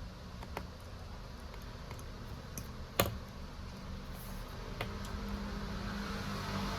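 Scattered light clicks and taps from small tools and parts being handled on a workbench, with one sharp click about three seconds in, over a steady low hum.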